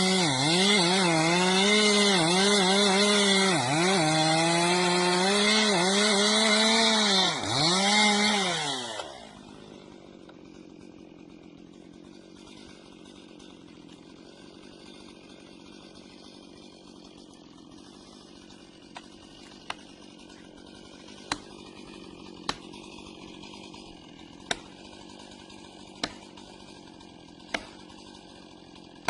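A chainsaw runs at high revs and cuts, its pitch dipping again and again as the chain bites in. About nine seconds in it stops. After that there is a much quieter steady hum, and later a series of sharp single ticks about a second and a half apart.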